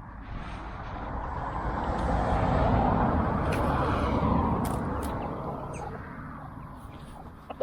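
A car passing by: a broad road noise that builds up, peaks about halfway through and fades away, with a few sharp clicks on top.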